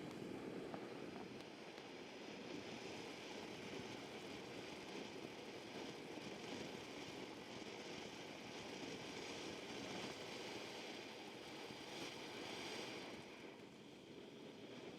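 A ground firework fountain spraying sparks with a steady hiss, which eases off near the end.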